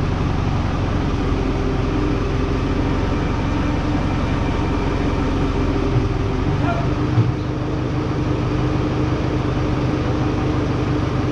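An engine idling steadily, with two brief knocks about six and seven seconds in.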